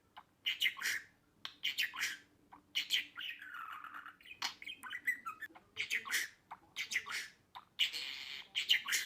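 Budgerigar chattering: clusters of short, quick chirps, with two longer scratchy calls, one near the middle and one near the end.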